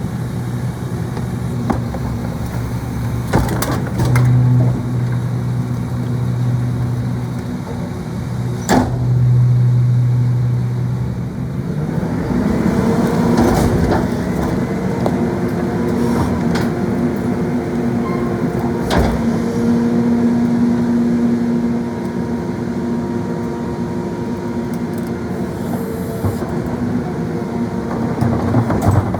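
Garbage truck's engine running, speeding up about twelve seconds in and holding the higher speed, with a few sharp bangs along the way.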